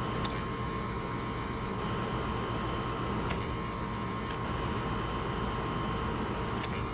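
Fanimation Crease 36-inch ceiling fan running at its fastest setting: a steady rush of moving air with a thin steady tone under it.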